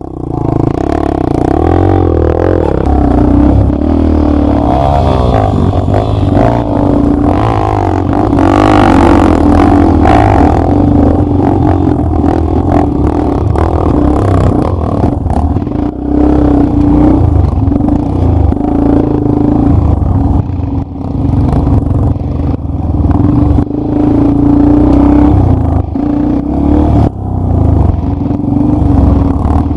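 Enduro dirt bike engine heard from on board while riding a trail, its pitch rising and falling with the throttle, with clattering from the bike over rough ground.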